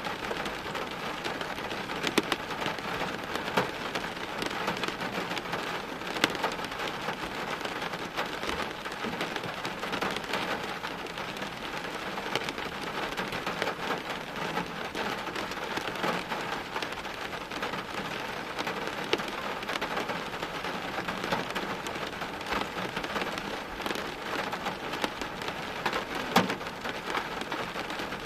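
Steady rain: a dense, even hiss of falling rain with many sharp individual drop hits scattered through it.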